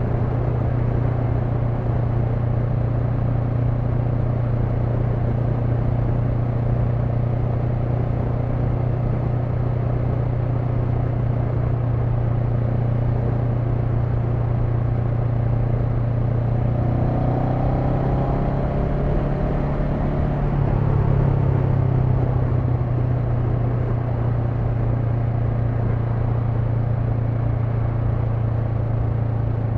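Honda NX500's 471 cc parallel-twin engine running steadily while riding. About two-thirds of the way through the engine note shifts and briefly gets a little louder, then steadies again.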